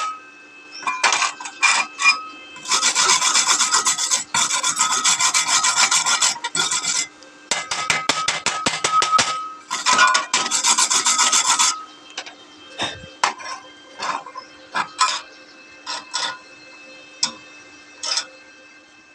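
Rapid back-and-forth scraping on metal in two long spells, followed by scattered single strokes and light taps. This is the kind of scrubbing used to clean a fresh weld.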